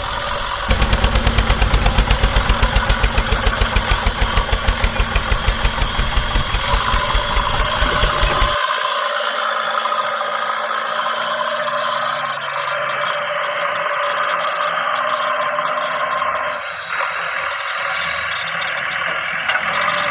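Tractor engine running with a regular chug of about five or six beats a second. About eight and a half seconds in, the low chug cuts off suddenly and a steadier, higher running hum carries on.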